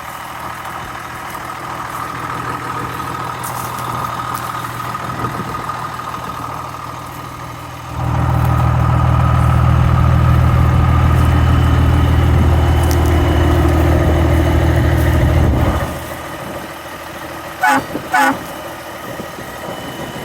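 Diesel semi tractor idling, then its horn sounds in one long steady blast of about eight seconds, starting and stopping abruptly, followed by two short toots. The engine is a Cummins M11 in a 1994 International 8400.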